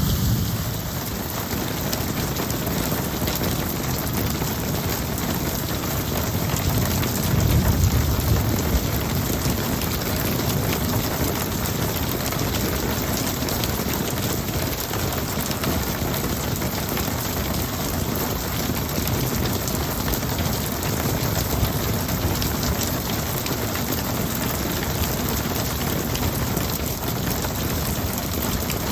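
Steady rain pouring down in a thunderstorm, with a low rumble of thunder about seven seconds in.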